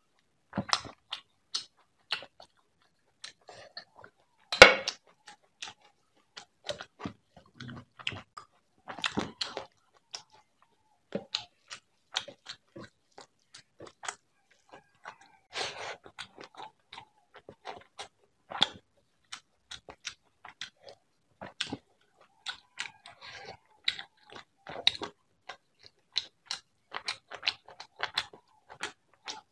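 Close-miked eating sounds: rice and prawn curry mixed by hand and chewed, a run of short sharp mouth clicks and crunches at an uneven pace. One much louder sharp knock stands out about four and a half seconds in.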